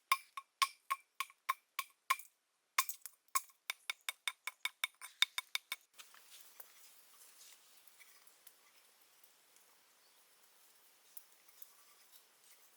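A fast run of sharp, ringing knocks, about three to four a second, pausing briefly and stopping about six seconds in. Faint ambience with a few small ticks follows.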